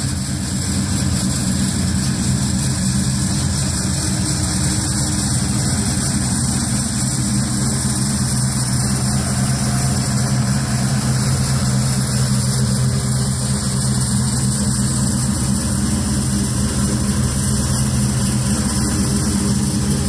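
1955 Chevrolet truck engine idling steadily at an even speed, with a constant hiss over it.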